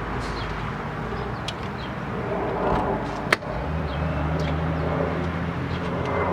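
2004 Volvo S60R's turbocharged five-cylinder engine starting for the first time after a front-end rebuild: a sharp click about three seconds in, then the engine catches and settles into a steady idle.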